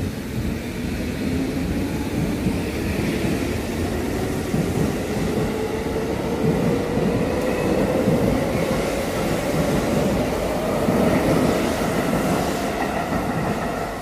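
Electric commuter train of the Tokyo Metro Tozai Line departing a platform: its traction motors whine, rising slowly in pitch as it gathers speed, over the rumble of wheels on the rails.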